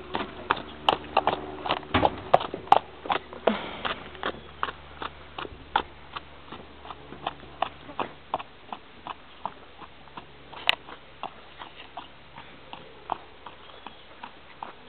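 Mangalarga mare's hooves clip-clopping in a steady, even rhythm of about three beats a second, loud at first and growing fainter as she moves away. A short scuffing noise about three and a half seconds in.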